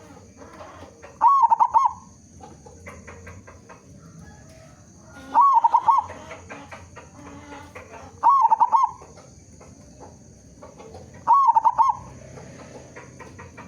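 Local zebra dove (perkutut) singing: four short phrases of quick cooing notes, one about every three to four seconds, over faint background chirps and clicks.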